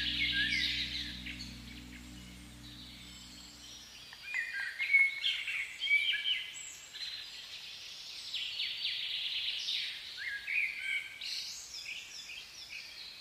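Songbirds singing, several overlapping songs of chirps and short whistled phrases. Under them a low, steady musical tone ends about four seconds in.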